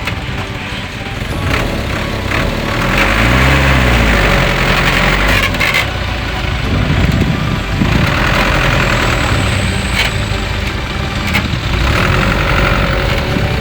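Truck engine running. Its pitch rises and falls about three to five seconds in as it revs, with a hissing noise that comes and goes and several sharp knocks.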